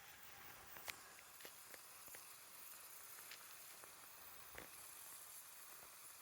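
Faint steady hiss of a Mamod model steam locomotive warming up on its first firing, with scattered small ticks and clicks; the sharpest click comes about a second in.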